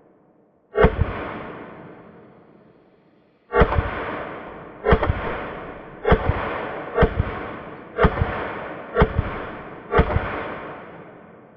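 Eight rifle shots from an SKS firing 7.62×39 rounds in semi-auto, the first alone and the rest about one a second after a pause of a few seconds, each followed by a long echoing decay.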